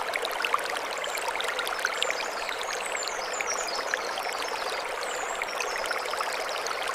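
Mountain stream running over stones: a steady rushing splash full of small bright droplet clicks. A short run of high chirps comes through in the middle.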